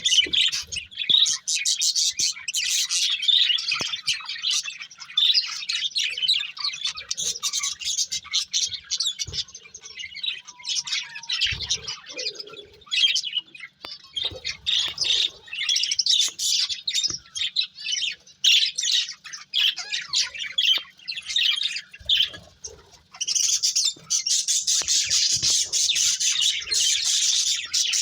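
Budgerigars chirping and warbling in a constant run of quick, high chirps, with some harsher squawks, busiest and most continuous in the last few seconds.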